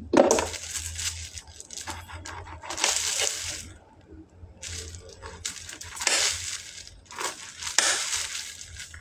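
A person biting and chewing orange segments, in a series of short, irregular chewing sounds. The fruit is dry and firm.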